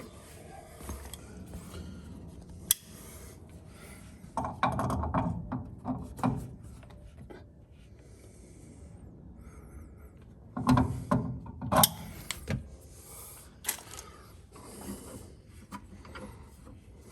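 Metal clinks, clicks and rubbing from hand work on an old copper fuel line and its fittings, in two busy spells about four seconds in and again around eleven seconds, with single sharp clicks between.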